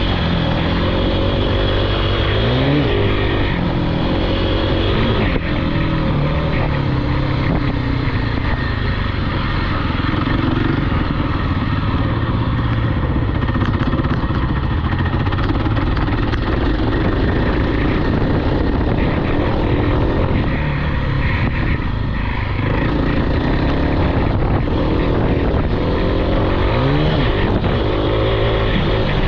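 Small off-road vehicle engine running hard under riding load, with the throttle opened and the revs climbing quickly about three seconds in and again near the end.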